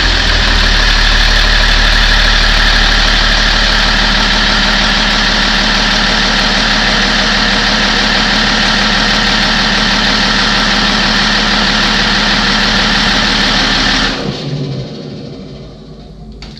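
BMW 330d E46's freshly rebuilt six-cylinder diesel engine running steadily on its first start after the rebuild, then switched off about fourteen seconds in and running down. It starts well and runs correctly.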